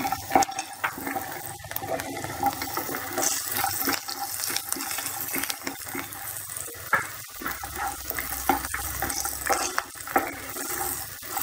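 Onions, green chillies, curry leaves and roasted peanuts sizzling in hot oil in a pan while a wooden spatula stirs them, with frequent small scrapes and taps of the spatula against the pan.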